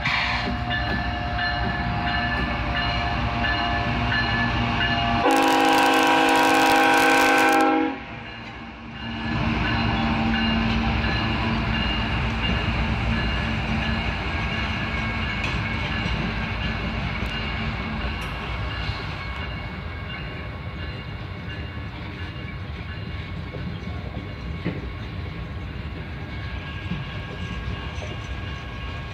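Norfolk Southern diesel locomotive passing with its engine running, sounding one long horn blast about five seconds in that lasts around two and a half seconds and is the loudest thing heard. Afterwards the Triple Crown RoadRailer trailers rumble and click past on the rails, slowly fading.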